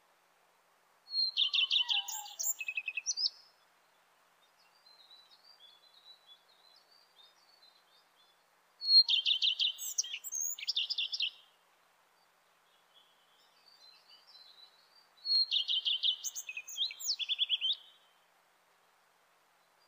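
Redstart singing: three short song phrases several seconds apart, each opening with a clear high note and running into a quick series of repeated notes with a varied ending. Faint, softer chirps come between the phrases.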